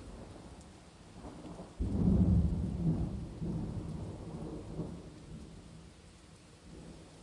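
A clap of thunder breaks in about two seconds in and rolls as a low rumble, fading away over the next few seconds, over a steady patter of rain.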